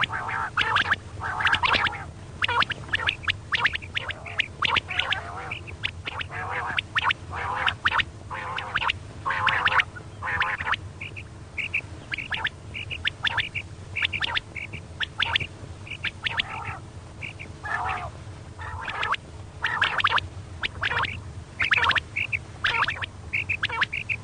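Female quail calling, a long series of short, rapid harsh notes; from about halfway through, short clear higher notes come in small groups among them. A steady low hum runs underneath.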